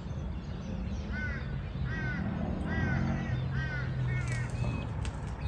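A bird calling repeatedly: about six short, harsh calls that each fall in pitch, spaced under a second apart.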